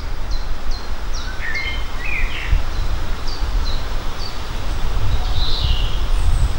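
Small birds chirping: a run of short, high, downward-sliding chirps, a couple a second, with a few lower calls about two seconds in, over a steady low rumble like wind on the microphone.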